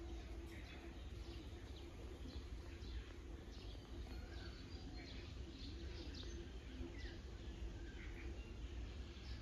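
Small birds chirping faintly outside, short scattered calls, over a low steady background rumble.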